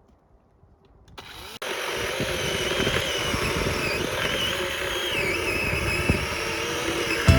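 Small engine running loudly, its pitch wavering up and down, starting abruptly about a second and a half in.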